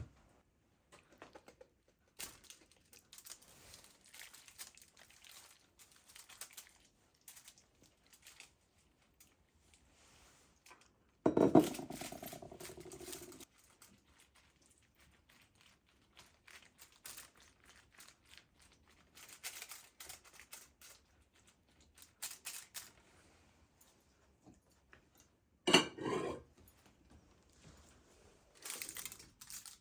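Kitchen handling sounds: scattered light clicks, taps and rustling, with a louder clunk about a third of the way in that rings on for a couple of seconds, and another short clunk near the end.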